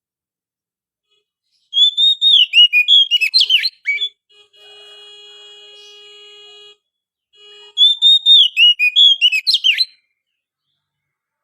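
Oriental magpie-robin (kacer) song: two bursts of rapid, sliding whistled phrases, each about two seconds long. Between them a fainter steady sound of several held tones runs for about two seconds.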